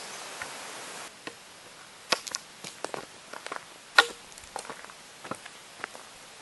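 Bamboo stalks knocking together in a bamboo forest: irregular clicks and clacks at uneven intervals, the loudest about four seconds in.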